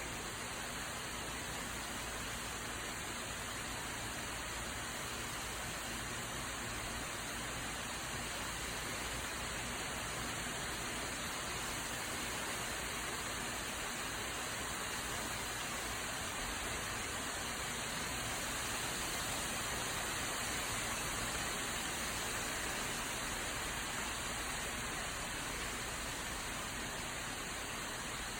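Steady rain shower falling, an even hiss of rain on the yard and surfaces.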